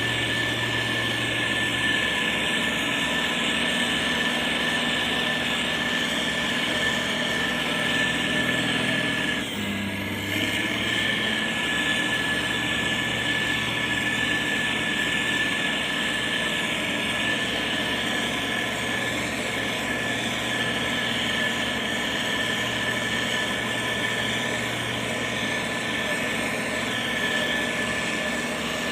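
Diesel engine of heavy road-building machinery running steadily, with a steady high whine over the engine hum. The engine note shifts briefly about ten seconds in.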